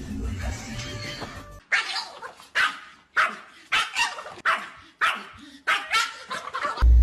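A dog barking repeatedly: about nine sharp barks in a run, starting about a second and a half in.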